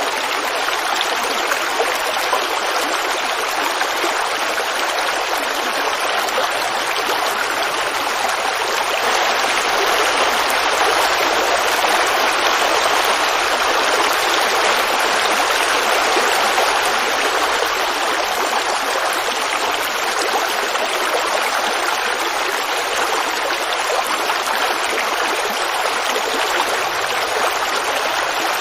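Forest creek running and babbling steadily, swelling slightly in the middle.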